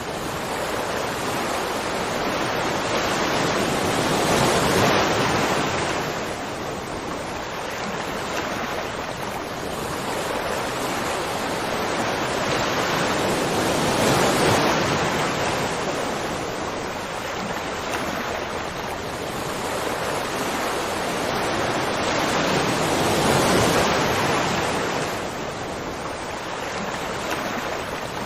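Waterfall: a steady rush of falling water that swells and eases in slow surges about every nine seconds.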